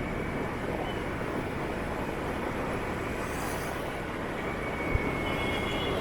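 Traffic noise heard from a moving motorbike: a steady rumble of engines and road, with a faint high whine near the end and a short thump about five seconds in.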